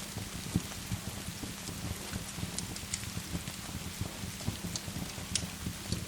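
Steady rain falling, with scattered sharp clicks and pops like a crackling wood fire, and irregular dull low knocks underneath.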